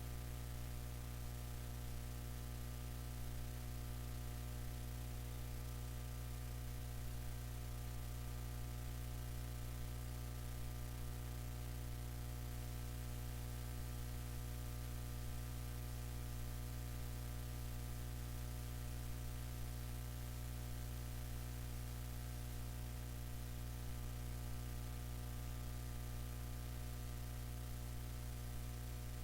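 Steady electrical hum made of several low tones, with a hiss over it.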